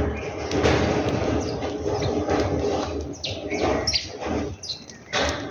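Small birds chirping: a few quick, sharply falling chirps over a steady background murmur.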